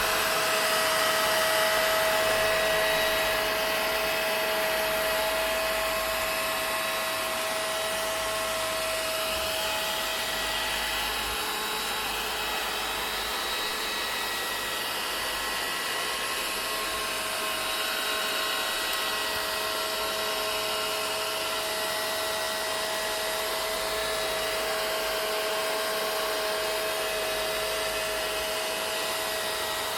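Vacuum cleaner running continuously: a steady rush of air with a constant motor whine over it, unchanging throughout.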